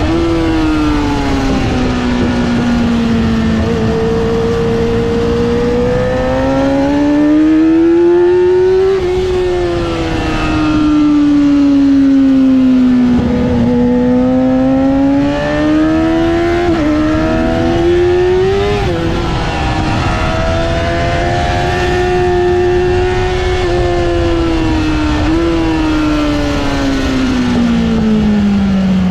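Yamaha R6's inline-four engine being ridden hard on track, its pitch repeatedly rising under acceleration and falling off into corners, with short jumps at gear changes, over steady wind rush.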